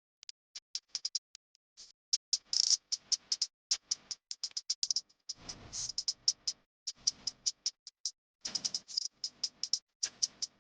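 Rapid, irregular clicking and light rattling of small hard objects being handled, with fuller scraping stretches about halfway through and again near the end.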